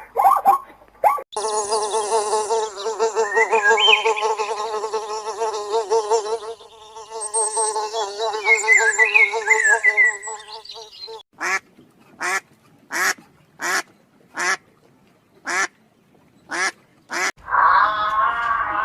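Farm animals calling in turn: a long wavering, buzzy call, then high chirps, then about ten short calls evenly spaced about two thirds of a second apart.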